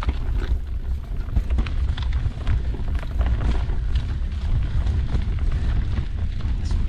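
Wind buffeting the action camera's microphone as a steady low rumble, with the clicks and rattles of a mountain bike riding over a rough trail.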